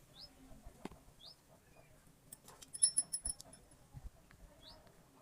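Faint short rising chirps repeating about once a second, like a small bird calling, with a brief run of light metallic clicks and tinkles a little past the middle.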